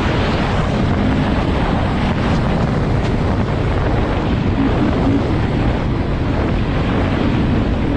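Wind rushing over the microphone of a moving motorcycle, with the engine running faintly underneath at a fairly steady pitch.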